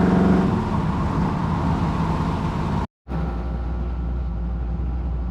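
Steady car engine and road noise heard from a car, breaking off abruptly just under three seconds in, then a steady low hum.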